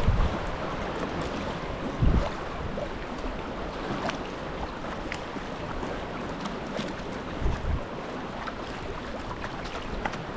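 Sea water lapping and splashing around a sea kayak, a steady wash with many small drips and splashes. Three brief low thumps come through it, near the start, about two seconds in and about three-quarters of the way through.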